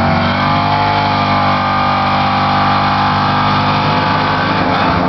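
Fox-body Ford Mustang drag car doing a burnout, its engine held at high, steady revs while the rear tyres spin in smoke.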